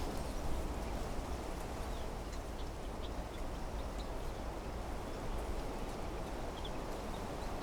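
Wind blowing steadily through trees, a low even rush of moving leaves and branches, with a few faint, short high chirps scattered through it.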